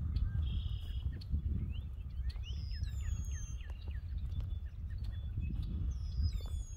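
Several songbirds calling: a short buzzy note, a quick run of rising chirps about halfway, and high falling whistles, heard over a steady low outdoor rumble.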